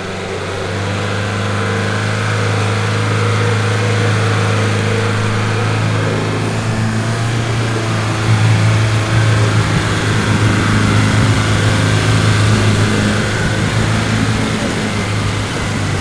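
Nissan Patrol's engine running under load as the 4x4 crawls through deep bog water, a steady low drone that grows louder about eight seconds in.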